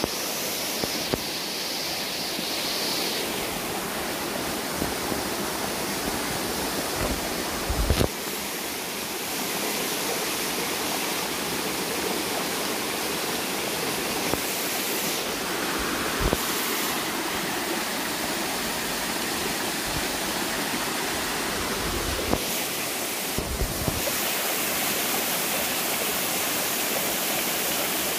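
Small waterfall rushing steadily, with a few brief low thumps of wind or handling on the microphone.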